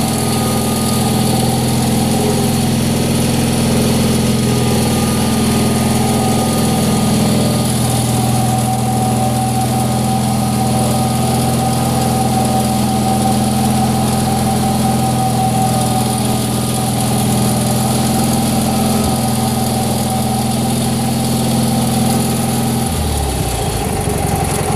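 Wheel Horse Air Horse aircraft tug's engine running steadily under its hydrostatic drive, with a steady whine above the engine note. Near the end the engine note drops abruptly.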